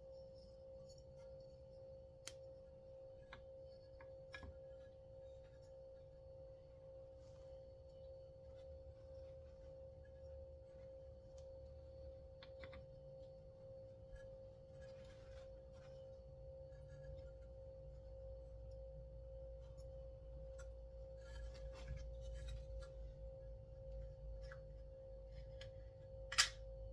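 Small clicks and taps of hand work on a chainsaw's recoil pull-starter parts, the sharpest click near the end, over a steady electrical hum.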